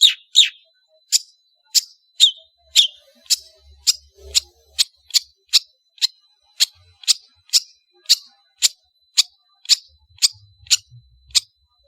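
Long-tailed shrike (Lanius schach) calling a long run of short, sharp, high notes, about two or three a second, each a quick downward sweep.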